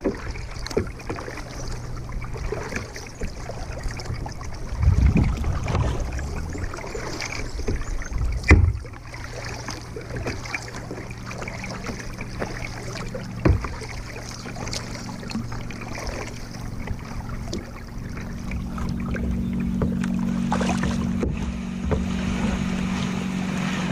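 Kayak being paddled on a lake: water noise from the paddle strokes, with a few sharp knocks, the loudest about a third of the way through. A steady low hum runs underneath and rises a step in pitch about three-quarters of the way in.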